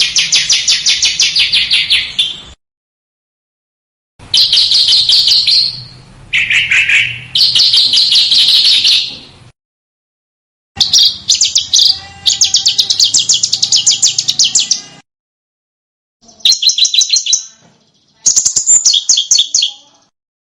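Small songbird singing in sharp, rapid trills of closely repeated high notes, in bursts of one to five seconds with dead-silent gaps between, as in an edited song recording.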